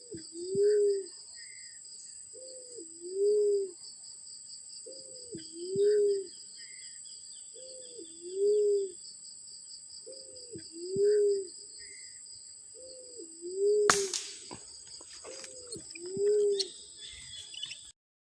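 A bird giving a low two-note call, repeated seven times about every two and a half seconds, over a steady high-pitched whine. A sharp click comes about fourteen seconds in.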